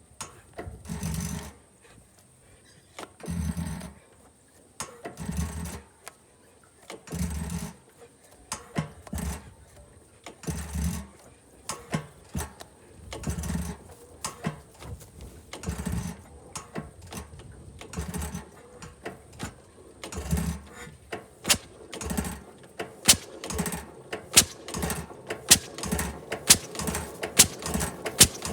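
6 HP White single-cylinder gasoline engine starting and picking up: at first one low exhaust beat about every two seconds, then the beats come steadily closer together, with sharp ticks two or three times a second near the end as it settles into running.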